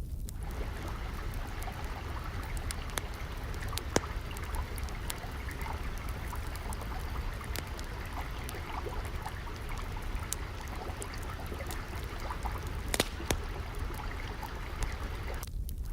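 Water trickling and flowing steadily, with fire crackles scattered through it; the sharpest pops come about four seconds in and about thirteen seconds in.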